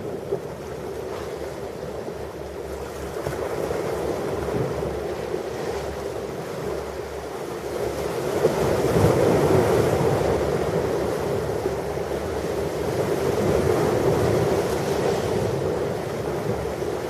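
Ocean surf: waves breaking and washing onto a beach, a steady rush that swells about halfway through and again near the end.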